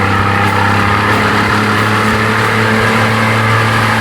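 1992 Johnson 60 hp two-stroke outboard motor running at a steady speed.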